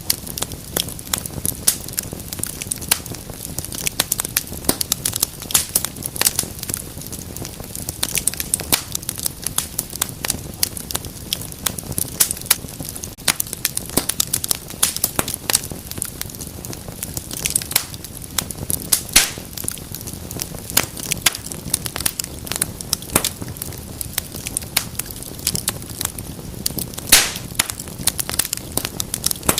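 Wood fire in a fireplace crackling steadily, with many irregular snaps and pops over a low hiss of flame, and a louder pop now and then.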